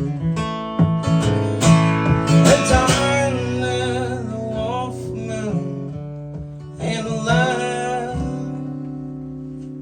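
Acoustic guitar strummed in a slow song, with a wavering held melody line over it twice.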